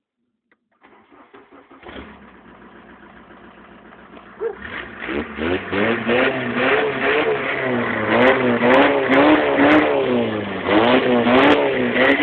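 Car engine cranked by the starter for about a second, catching and idling, then revved up and down again and again from about four seconds in, heard from inside the cabin.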